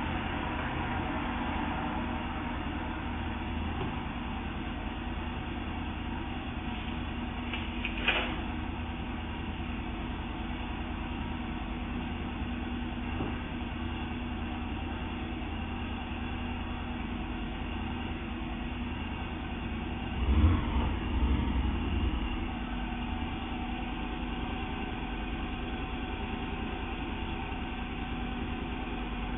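A vehicle engine idling steadily, with one sharp knock about eight seconds in and a short cluster of heavier thumps around twenty seconds in.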